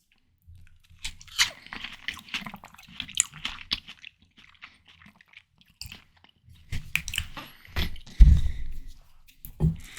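Close-miked biting and chewing of ripe, juicy watermelon: crisp crunches and wet squishes of the flesh. It comes in two bouts, the first about a second in and the second from about seven seconds, with a heavy low thump just after eight seconds.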